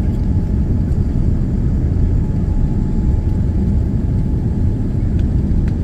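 Steady low rumble of a Boeing 787-9's cabin during landing, heard from a window seat: engine and airflow noise with a faint steady whine above it.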